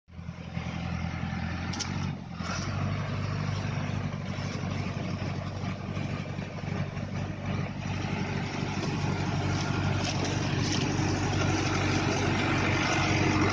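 Tractor engine running steadily, with a brief dip about two seconds in, growing slowly louder toward the end.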